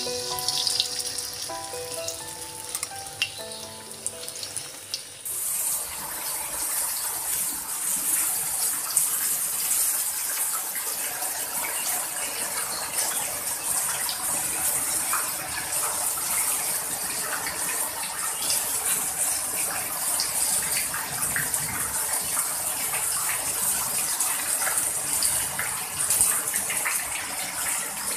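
For about the first five seconds, tofu crackles as it fries in oil in a wok under background music. Then a heavy downpour takes over: a dense, steady hiss of rain pouring down, with water gushing off the roof edges.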